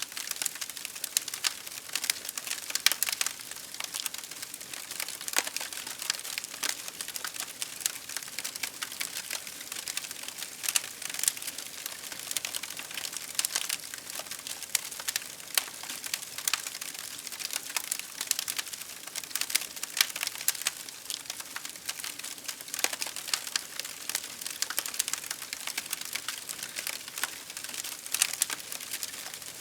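Wood fire crackling: a dense, irregular run of sharp pops and snaps over a steady hiss.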